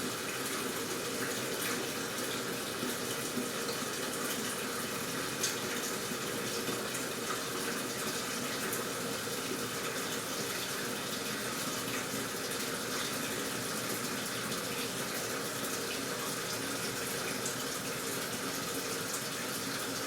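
Steady rush of water running into a washing machine, even and unbroken.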